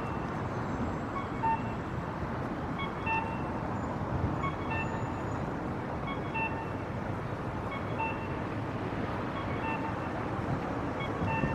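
City street ambience: a steady wash of traffic and street noise, with short high-pitched beeps repeating about once a second at uneven spacing.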